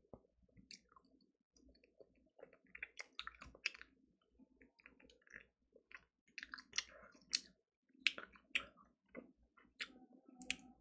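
Faint, irregular clicks and wet smacks of a person chewing and nibbling a piece of fried chicken held in the fingers.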